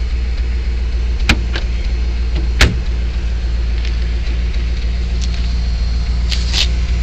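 Mercedes-Benz 450SL's V8 idling with a steady low hum. One loud knock about two and a half seconds in, as the trunk lid is shut, with a lighter click before it and a couple more near the end.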